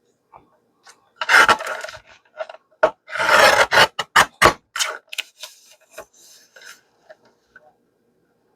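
Paper being trimmed along its edge: two rasping cutting strokes a couple of seconds apart, then a quick run of sharp clicks and rubbing as the page is handled.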